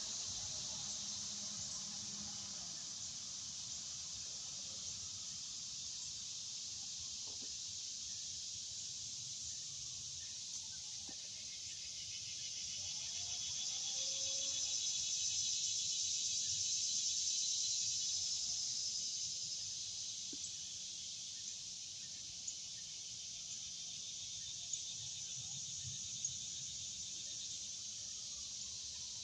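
Outdoor insect chorus: a steady high, fast-pulsing buzz that swells louder for several seconds in the middle and then settles back, with a few soft clicks near the end.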